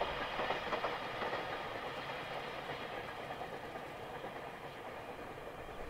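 Freight train's container wagons rolling along the track at a distance, a steady wheel-on-rail noise that slowly fades as the train draws away.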